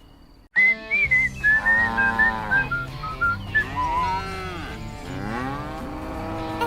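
Cattle mooing several times in long, arching calls over background music with a whistled melody and a steady beat.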